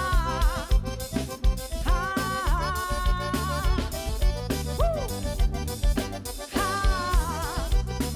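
Instrumental band music with no singing: a steady beat of bass and drums under a lead instrument playing a few long, wavering melody notes.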